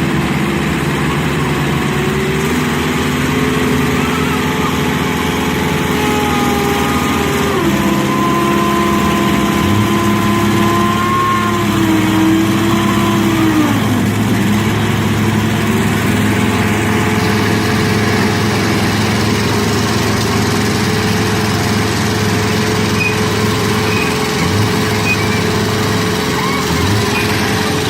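A vehicle engine running steadily under load, its pitch stepping down about seven seconds in and dipping again around fourteen seconds.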